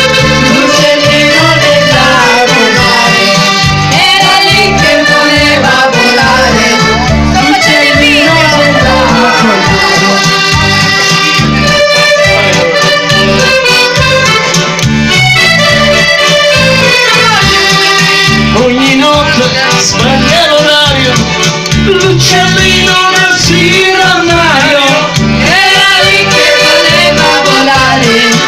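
Accordion playing a lively folk tune over a steady rhythmic bass, with a voice singing along at times.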